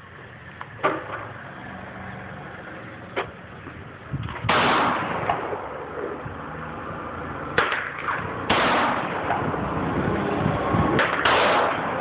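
Single AR-15 rifle shots fired a few seconds apart, each a sharp crack with a short ringing tail. From about four seconds in, a steady rushing noise sits under the shots.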